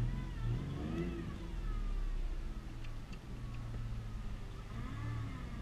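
Ford Mustang's engine running as the car moves off, a steady low drone heard from inside the cabin, with a higher whine that rises and falls about a second in and again near the end.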